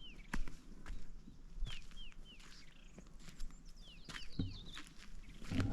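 A bird calling repeatedly, short downward-slurred chirps in clusters of two or three, with scattered clicks and taps.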